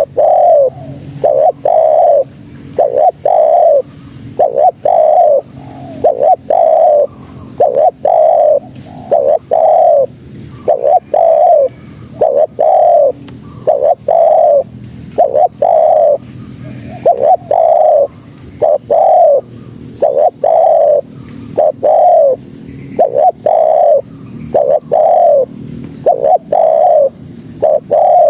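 Spotted dove cooing over and over, about one coo a second, presented as a female's call to draw in males.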